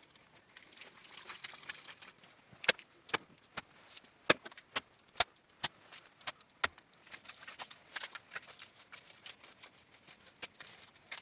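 A run of sharp knocks, about two a second, for some four seconds in the middle, with soft scraping or rustling before and after.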